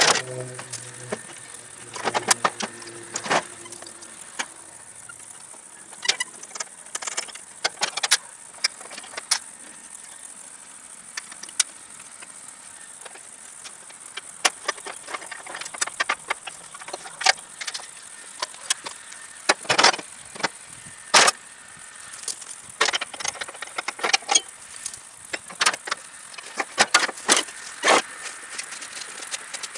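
Scattered metal clinks, clanks and rattles of tools and parts at irregular intervals, from work taking the cutting deck off a Troy-Bilt Pony riding mower.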